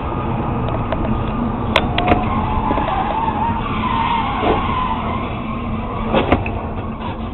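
Car tyres squealing in a long wavering skid over steady road noise, with sharp knocks about two seconds in and again near the end.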